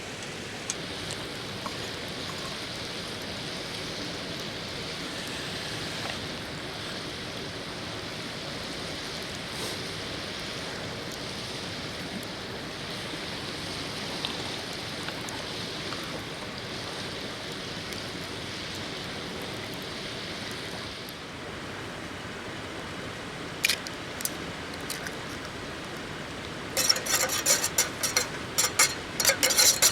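A river flowing steadily over stones, with a couple of sharp clicks a little past the middle and a rapid run of clicks and knocks near the end.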